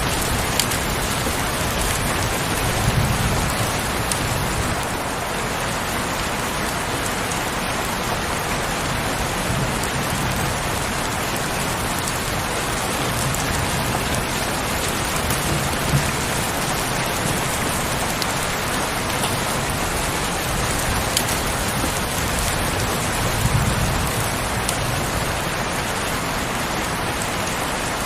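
Heavy rain falling steadily, a dense even hiss of drops, with a few soft low rumbles swelling briefly now and then.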